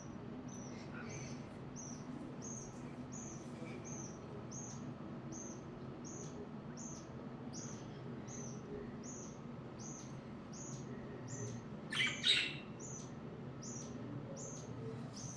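Budgerigar chirping: a regular series of short high chirps, about two a second, with one louder, harsher call near the end.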